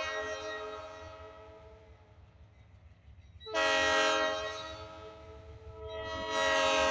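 Diesel locomotive air horn sounding a chord of several tones at once in repeated blasts: one blast dies away over the first two seconds, a loud blast starts sharply about three and a half seconds in and fades, and another swells in near the end. A low rumble of the train runs underneath.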